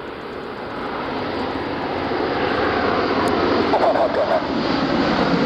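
Engines of an RAF Airbus A400M four-engine turboprop transport, a steady rushing drone that grows louder as the aircraft approaches, with a faint voice briefly heard about four seconds in.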